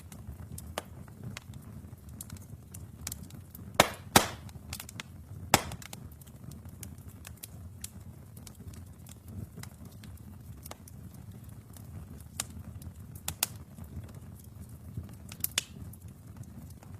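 Wood fire burning in a fireplace: a steady low rumble of flames with scattered sharp crackles and pops, the loudest a cluster of pops about four seconds in.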